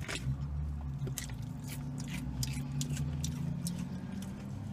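Close mouth sounds of eating takeout chicken: chewing and finger-licking, with scattered short wet smacks and clicks over a steady low hum.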